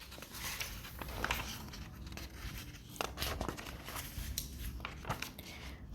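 Soft rustling and crinkling handling noise, with scattered small clicks and crackles over a low room hum.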